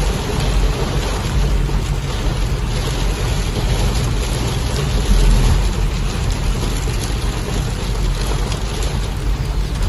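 Steady rain and gusting storm wind, with the wind rumbling on the microphone.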